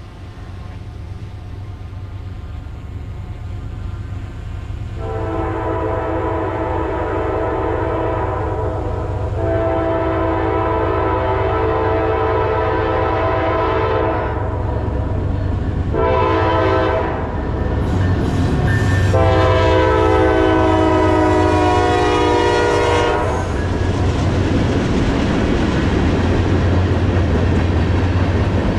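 Diesel freight locomotive's air horn sounding the grade-crossing signal, long, long, short, long, over the rumble of the engine drawing nearer. After the last blast the engine and rolling wheels carry on, louder.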